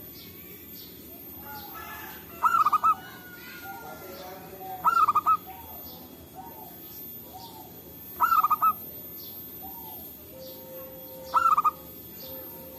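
Zebra dove (perkutut) cooing: four loud rolling calls of quick repeated notes, one about every three seconds, with fainter, lower calls between them.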